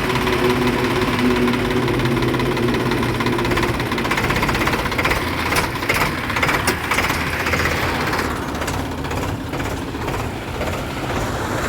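ACE tractor's diesel engine running steadily with a knocking clatter, with a few sharp knocks about halfway through.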